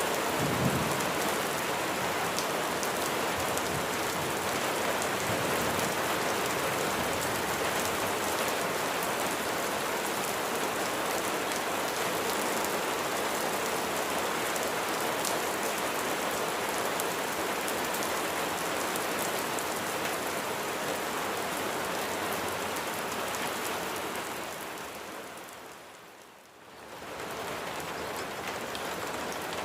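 Steady rain falling on a surface, a dense even patter. A brief low thump comes about a second in. Near the end the rain fades almost away for a moment and then comes back.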